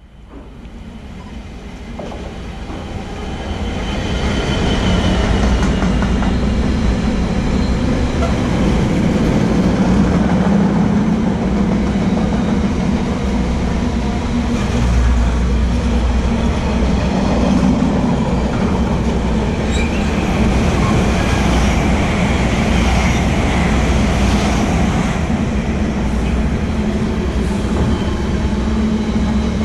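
Container freight train passing close by. It grows louder over the first few seconds as it comes in, then gives a long steady noise of the wagons' wheels rolling on the rails.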